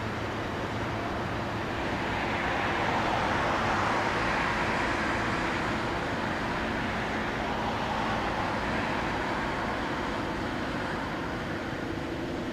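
A vehicle passing by, its rushing noise swelling over a few seconds and then fading, over a steady low engine drone.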